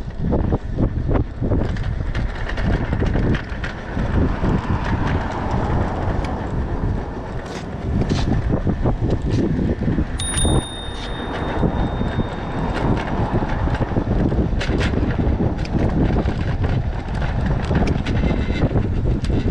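Wind buffeting the microphone with rumble and rattling knocks while riding an electric bike. About ten seconds in a brief high ringing tone sounds over it.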